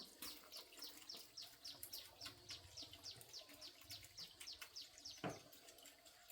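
Faint bird chirping: a steady series of short, falling chirps, about four a second. A single sharp knock about five seconds in.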